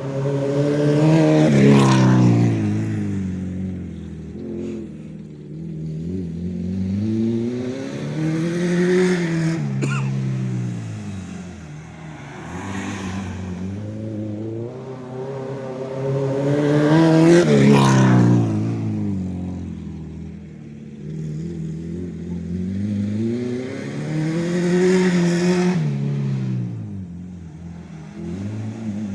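Acura RSX's four-cylinder engine lapping a small dirt track, its pitch climbing and falling again and again as it accelerates and lifts, loudest twice, about two seconds in and again about halfway.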